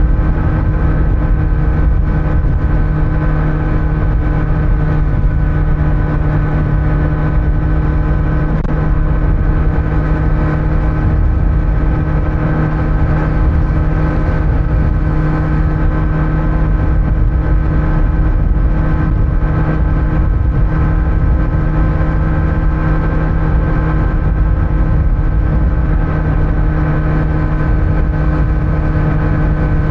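Kawasaki Z900 inline-four engine running at a steady cruise through its stock exhaust, its note holding an even pitch, with road rumble underneath.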